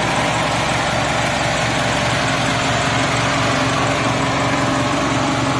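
Mitsubishi Lancer's DOHC 16-valve fuel-injected four-cylinder engine idling steadily, heard up close from the open engine bay. The idle is smooth and even, the sign of an engine in good running order.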